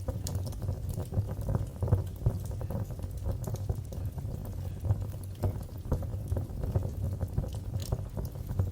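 Wood fire burning in a fireplace: a steady low rumble of flames with irregular crackles and sharp pops throughout.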